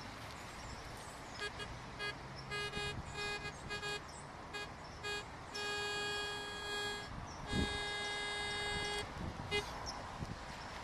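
Metal detector's audio tone sounding at one steady pitch: a string of short beeps, then two longer held tones of about a second and a half each, and a last short beep. A dull thud comes between the two long tones.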